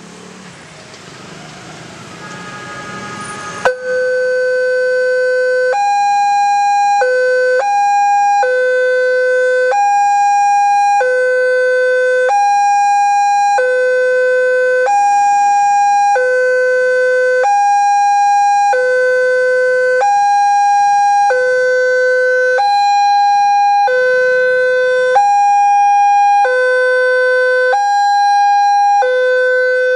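Indonesian railroad level-crossing warning alarm starting about four seconds in, after some passing road traffic: a loud electronic two-tone signal alternating between a lower and a higher tone, switching about once a second. It signals that a train is approaching and the crossing barriers are closing.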